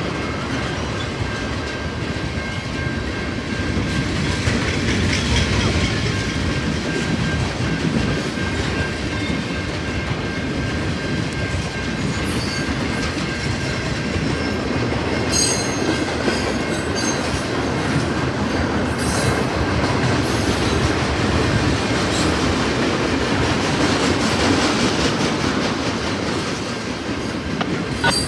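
A train rolling past with a steady, continuous rumble of wheels on rail, and brief high-pitched wheel squeals several times.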